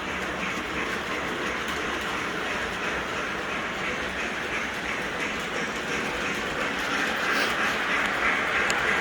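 O gauge model trains running around the layout: the steady whirr and clatter of their wheels and motors on the track, getting a little louder near the end.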